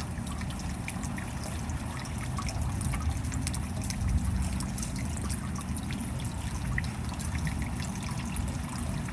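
Steady rain falling, with many small drops ticking over a deep, even rush of water.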